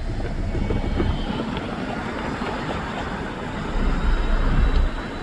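Rumble of an approaching Metra commuter train with an F40PH-2 diesel locomotive, mixed with wind buffeting the microphone. A stronger, deeper gust swells near the end.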